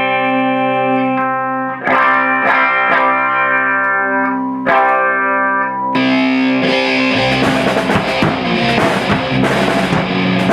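Electric guitar through effects ringing out sustained chords, with a fresh pick attack every second or two. About six seconds in, the sound turns into a louder, noisier wash of distorted playing, with hiss high up and low thumps joining from about a second later.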